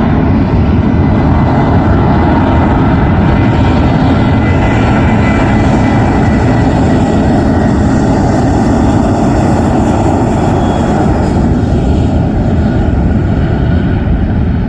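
Jet airliner engines at takeoff power: a loud, steady roar with faint thin whining tones, its upper hiss swelling in the middle and easing off near the end.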